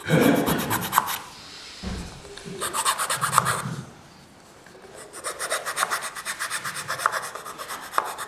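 Square file rasping on wood in quick, rapid strokes. The strokes come in three runs with short pauses between, the longest run in the second half.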